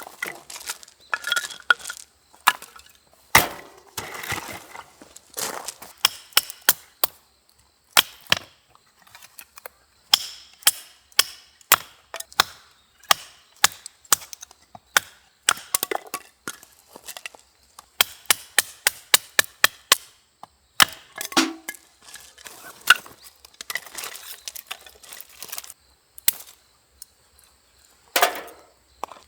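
Firewood cracking and snapping: a long run of sharp, irregular cracks, some in quick clusters and a few heavier snaps.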